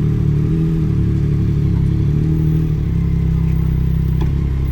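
Dirt bike engine running steadily with a low, even drone.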